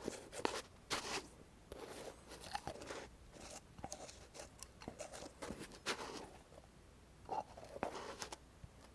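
ASMR hand sounds close to the microphone: irregular clusters of short crackling, rubbing and clicking noises.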